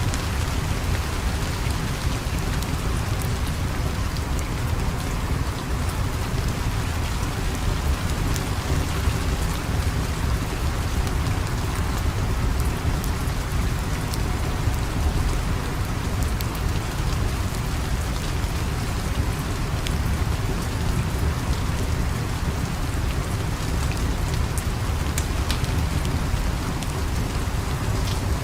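Steady rain falling, with a constant deep rumble underneath and scattered sharp ticks of drops.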